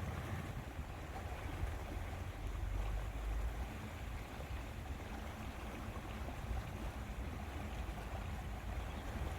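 Lakeside outdoor ambience: wind rumbling and buffeting on the microphone over a steady wash of water.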